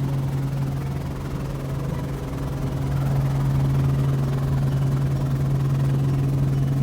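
Helicopter in flight, a steady low drone.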